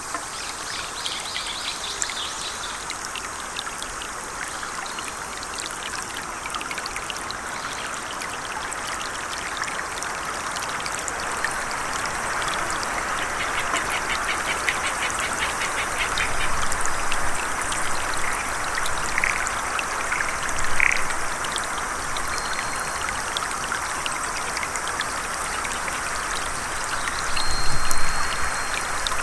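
A stream running steadily with animal calls over it: a fast rattling trill about halfway through, a couple of brief chirps a few seconds later, and short whistled notes near the end.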